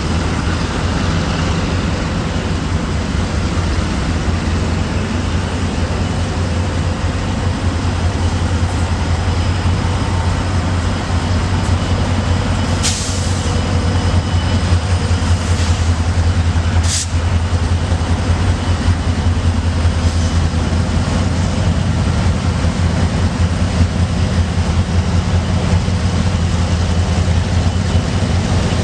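Freight train rolling by on the rails with a steady low rumble, broken by three brief sharp high-pitched sounds a little before and after the middle.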